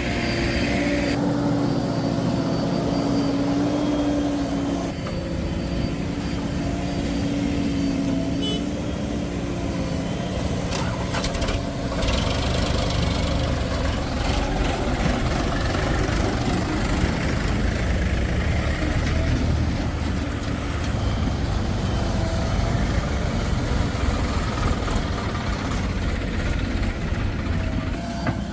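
Heavy diesel engines of a JCB backhoe loader and a tractor running steadily while loading soil, with a deeper, heavier rumble setting in about twelve seconds in.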